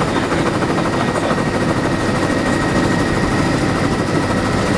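Helicopter engine and rotor running steadily and loudly, a dense constant noise with a steady high whine.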